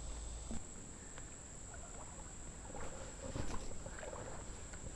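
Insects droning steadily on one high pitch, with faint scattered splashes and knocks of people wading and fishing in shallow creek water.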